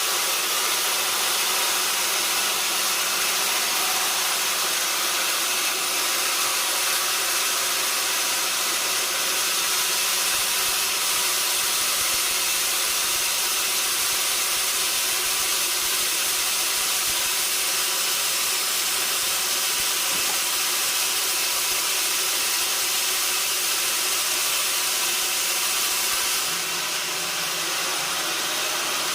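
Sawmill saw running steadily, a continuous high-pitched noise that eases slightly a few seconds before the end.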